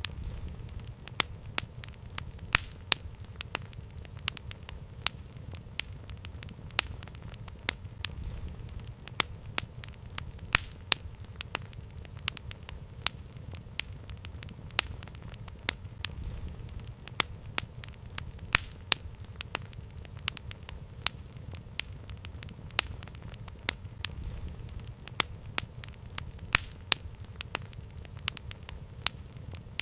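Campfire burning: the wood crackles and pops in sharp, irregular snaps, several a second, over a low, steady rumble.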